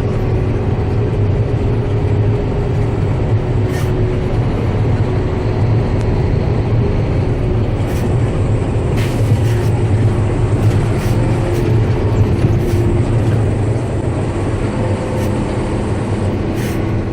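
International HX-series dump truck's diesel engine running with a steady low drone, with a few light clicks and rattles scattered through it.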